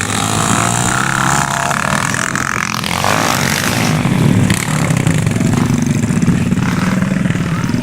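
Dirt bike engines running and revving up and down on a motocross track.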